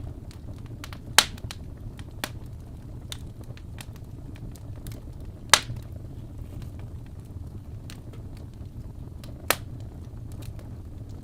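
Wood fire crackling in a fireplace: a steady low rumble of burning with scattered small ticks and three loud, sharp pops, about a second in, mid-way and near the end.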